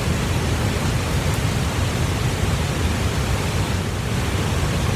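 Steady, even rushing noise with no breaks, heaviest in the low end.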